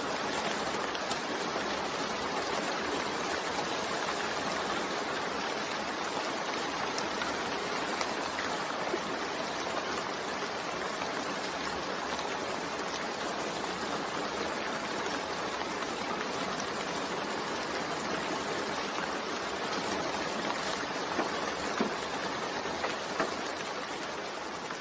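Steady rain falling, a continuous hiss with a few separate drops ticking now and then.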